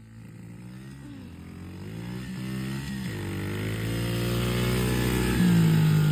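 Small pit bike engines revving hard as they accelerate away in a drag race. The pitch climbs, dips briefly about three seconds in, then climbs again, and the sound gets steadily louder as the bikes come closer, loudest near the end.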